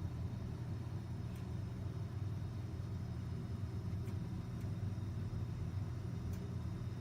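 Fire burning in a fireplace: a steady low rumble with four faint crackles spread through it.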